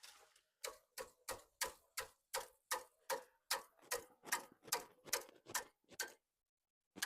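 A run of about fifteen sharp, evenly paced knocks, nearly three a second, each with a brief ring. They stop about six seconds in, and one more knock comes near the end.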